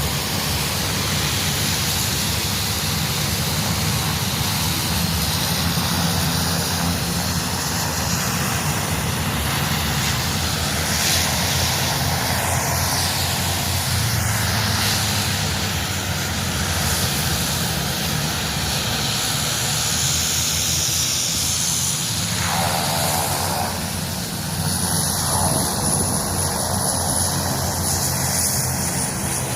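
Military aircraft flying past, a steady loud engine noise whose pitch drops about three-quarters of the way through.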